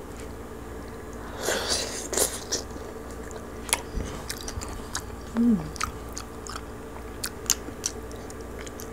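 Close-miked biting and chewing of crispy roast pig (lechon): a crunchy bite about a second and a half in, then scattered sharp crackles as the crisp skin is chewed. A short hummed "mm" comes around the middle.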